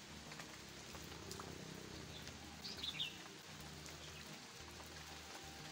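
Steady rain falling on leaves and a wet road, an even hiss. A small bird chirps a few times near the middle.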